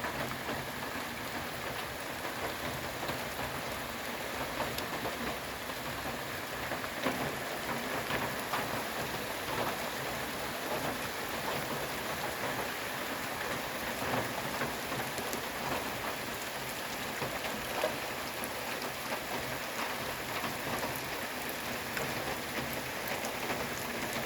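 River ice breaking up and moving downstream: a steady rushing hiss of water and ice with many small crackles and clicks scattered through it.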